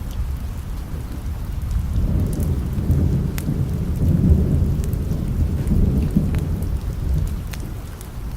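A long low rumble of thunder over steady rain. The rumble swells about two seconds in, is strongest near the middle and dies away near the end, with scattered light ticks of drops throughout.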